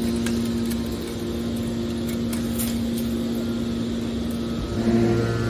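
Hydraulic can baler's motor and pump running with a steady hum; near the end the sound shifts, gets louder and takes on a deeper tone, as the machine comes under load.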